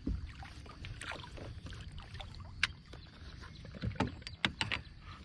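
Handling noise aboard a fishing kayak: a low rumble with a few sharp clicks and knocks, one about halfway through and a quick cluster near the end.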